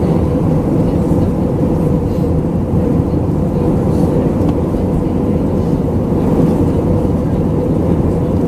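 Steady cabin drone inside an Airbus A319-112 in flight: rushing airflow and the engines, with a faint steady hum.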